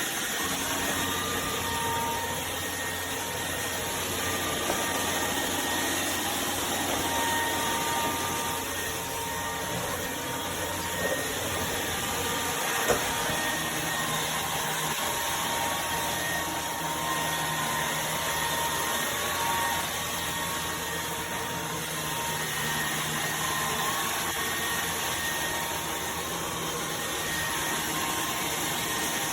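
Cordless stick vacuum running steadily, a whirring motor with a faint whine over it, and a sharp click about halfway through.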